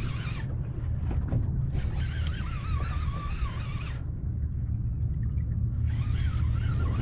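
Fishing reel's drag whining as a hooked smoothhound runs and strips line, the pitch wavering as the fish surges, in three spells: briefly at the start, again for about two seconds, then near the end. Under it, a steady low rumble of wind buffeting the microphone on the boat.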